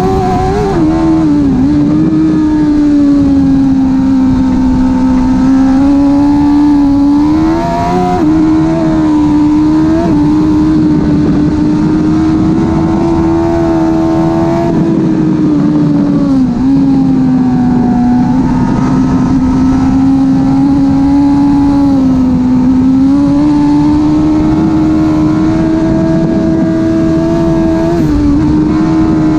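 2005 Suzuki GSX-R 1000 K5's inline-four engine with a slip-on exhaust, heard onboard at speed and held at a mostly steady high pitch. The pitch dips briefly and climbs back about five times as the rider shifts or brakes, over steady wind and road noise.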